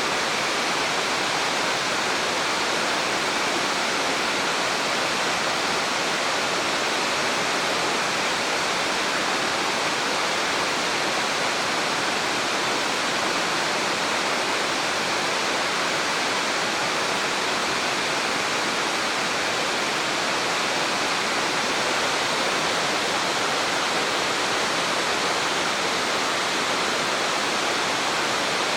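Rushing water of a mountain waterfall or river, a steady, unbroken noise with no changes.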